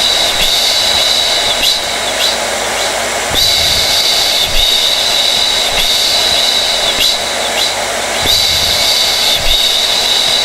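Hair dryer running steadily: an even rush of blown air with a high whine on top that dips briefly every second or two.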